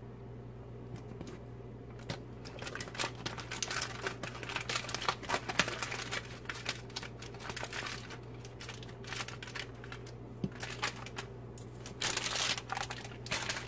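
Crinkling and crackling of a chicken cooking packet's wrapping as it is folded back closed by hand. It comes in irregular bunches after about two seconds, with the loudest flurry near the end.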